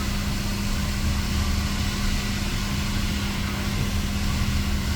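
Hot-air plastic welder running steadily: a constant hum with an even hiss of air.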